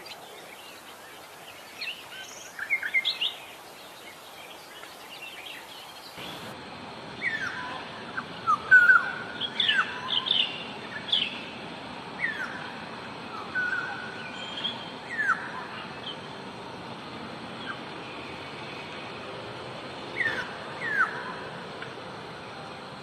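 Oriole (kepodang) singing: short whistled notes and quick pitch sweeps, repeated in bursts every second or two over a steady background hiss. About six seconds in, the background changes abruptly, as at a splice between recordings.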